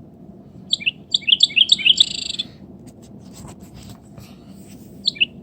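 Wren singing: a quick run of high, chattering notes that ends in a trill, then a second song starting near the end.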